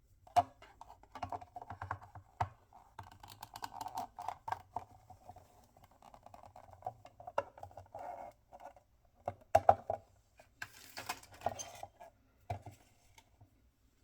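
Hands opening toy packaging: irregular crinkling, rustling and tapping with many sharp clicks, and a burst of harsher rustling about eleven seconds in.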